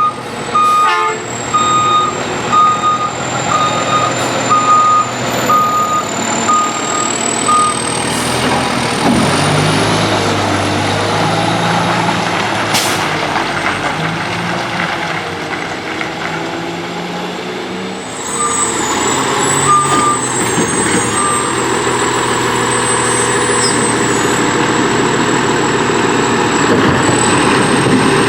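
McNeilus front-end loader garbage truck reversing, its backup alarm beeping about once a second for the first several seconds. Its diesel engine then runs and revs up and down, and about two-thirds through the sound turns noisier, with a few more short beeps.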